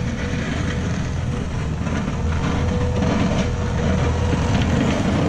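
Steady road and engine noise inside a moving vehicle's cabin: a low rumble with an even hiss over it, and a faint steady tone in the middle.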